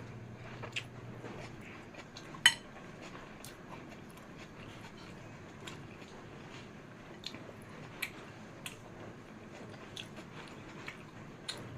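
Close-miked eating of fried noodles: soft chewing with scattered clicks of cutlery against the plate, and one sharp ringing clink about two and a half seconds in. A steady low hum runs underneath.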